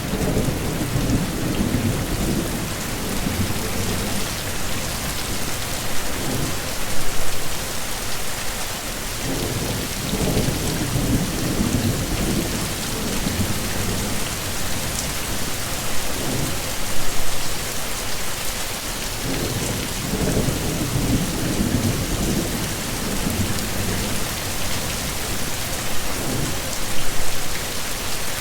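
Heavy rain falling steadily, with low thunder rumbles swelling and fading several times, each a few seconds long.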